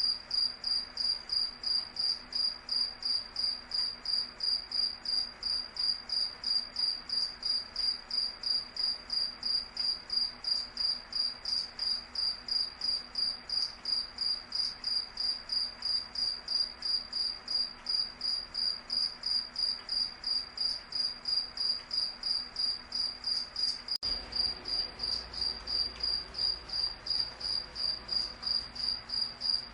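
Cricket chirping steadily: a high, even chirp repeated about three times a second. About three quarters of the way through, a faint low rumble comes in beneath it.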